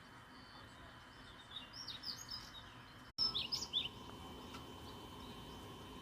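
Small songbird chirping: a few short high chirps about a second and a half in, then a louder cluster of chirps just after three seconds, over a steady low background hiss.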